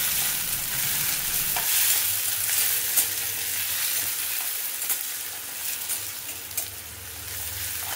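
Chopped tomato, onion and garlic sizzling in hot oil in a stainless steel pan, stirred with a slotted spatula that scrapes and taps against the pan a few times. The tomato is being fried until it softens.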